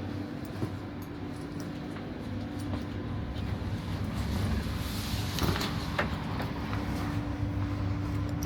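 Inside an ÖBB Cityjet regional electric train: a steady low hum with a steady higher tone held over it, and a few short clicks and knocks about five to six seconds in.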